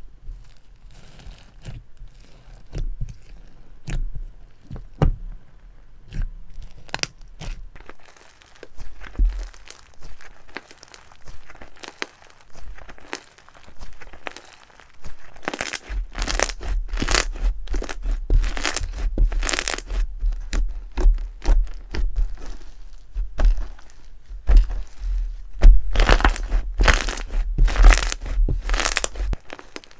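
Slime being squeezed and pressed by hand, making crunchy crackles and pops: scattered at first, then from about halfway a dense run of crackling with low thuds.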